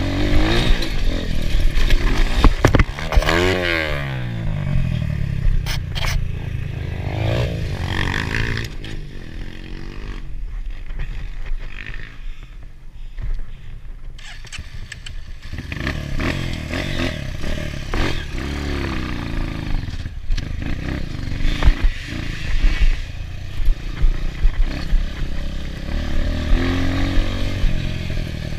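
Enduro motorcycle engine revving up and down repeatedly, with clattering and scraping throughout. It drops to a lower, quieter running for a few seconds in the middle, then picks up again.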